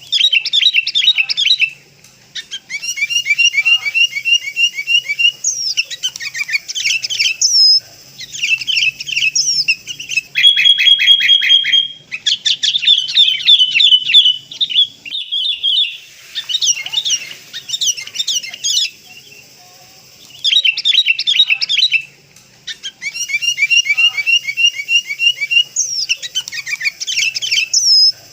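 Sooty-headed bulbuls calling: dense, rapid, high chirps and bubbling trills in bursts of a few seconds, with short pauses between them, played as a lure call.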